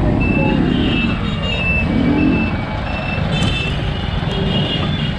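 Road traffic and wind noise heard while cycling, a dense low rumble, with a string of short high-pitched beeping tones repeating at irregular intervals.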